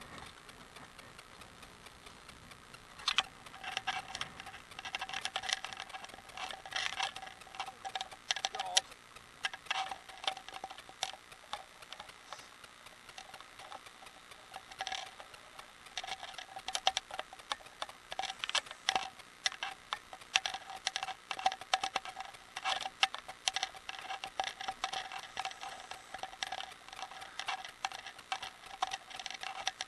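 Rapid, irregular clicking and rattling from a bicycle being ridden, starting about three seconds in, with a faint steady ringing tone behind the clicks.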